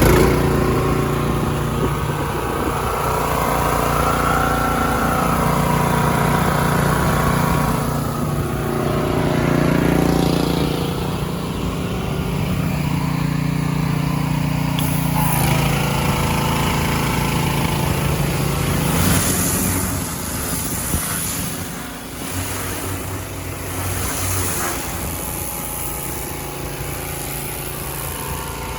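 Small engine of an IWATA engine-driven high-pressure washer running steadily. Its note drops about two-thirds of the way through, and short bursts of high hiss come and go in the second half.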